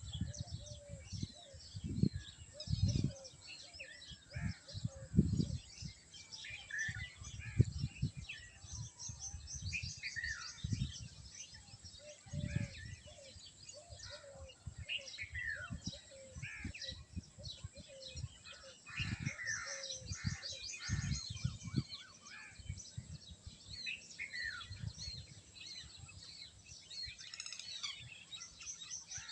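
Many small birds chirping and calling, overlapping short chirps and quick trills, with occasional low thuds mixed in.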